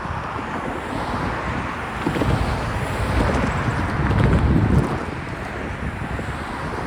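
Freight cars of a manifest train rolling past, a steady rumble of wheels on rail that swells for a couple of seconds in the middle, with wind on the microphone.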